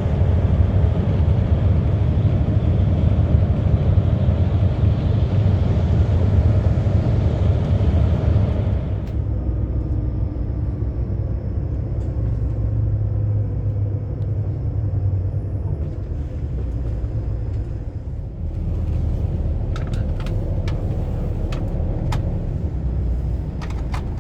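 Steady low rumble of a bus's engine and road noise, heard from inside the cabin. The hissing road noise drops away about nine seconds in, and a few sharp clicks sound near the end.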